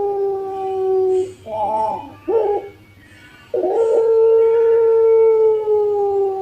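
Puter pelung dove cooing: a long drawn-out coo that falls slowly in pitch, two short broken notes about two seconds in, then another long, slowly falling coo from about three and a half seconds.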